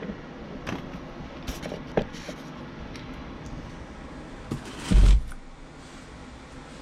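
Light clicks and knocks of metal parts being handled while a part is fitted onto a new furnace inducer draft motor, with one loud, dull thump about five seconds in.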